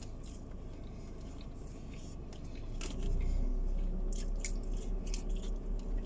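Close chewing and biting of food, with light clicks of plastic forks against plastic takeaway containers. A low steady hum underneath grows louder about halfway through.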